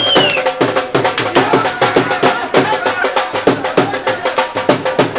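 Drum-led folk music: a fast, steady beat of about four to five strokes a second, with low drum strokes that bend down in pitch, over a steady held note.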